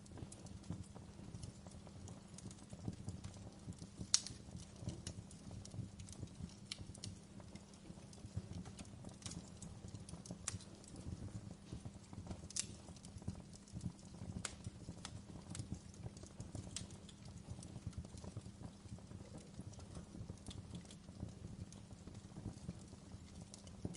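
Wood fire burning in a fireplace: a steady, dense low crackle with scattered sharp pops, the loudest about four seconds in.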